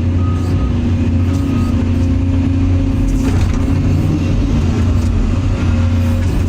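Caterpillar 336 EL hydraulic excavator's diesel engine running steadily under working load, a constant low drone with slight shifts in pitch as the machine digs and swings.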